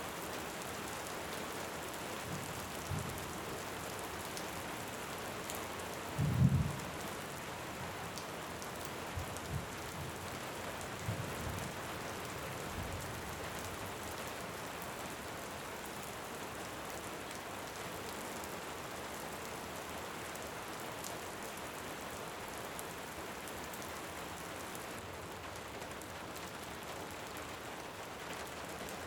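Steady heavy rain falling, with distant thunder rumbling: the loudest roll about six seconds in, and a few weaker rumbles over the following several seconds.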